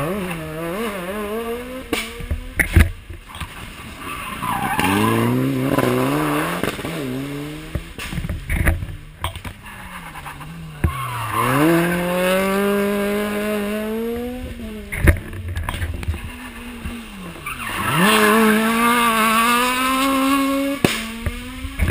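Rally car engines revving hard on a hairpin stage: about four spells of engine note, each dipping and then climbing in steps through the gears. Sharp cracks come between and during the spells.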